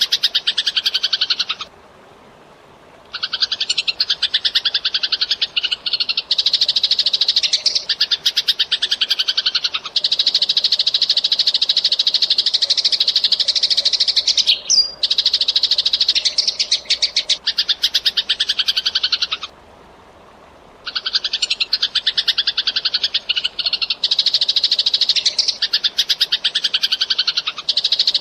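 Eurasian tree sparrow chirping in long, rapid runs of high chirps. The chirping breaks off briefly twice, about two seconds in and again about twenty seconds in.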